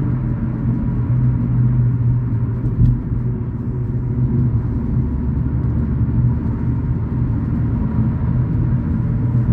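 Car driving at steady speed: a continuous low rumble of engine and tyre noise.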